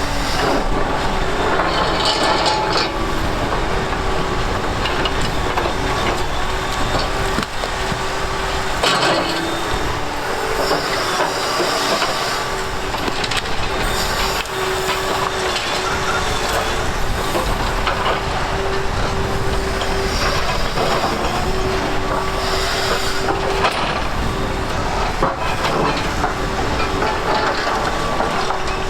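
Liebherr excavators working on concrete demolition: engines running with a steady hydraulic whine, over continuous irregular crunching, scraping and clattering of broken concrete and rubble.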